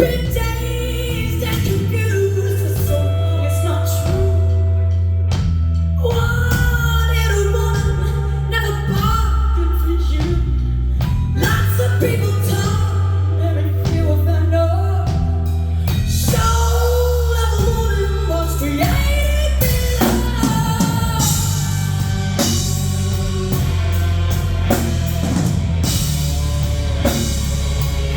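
Live band performance: a woman sings with wavering, sustained pitch over a steady bass line and drum kit. The voice comes forward about six seconds in.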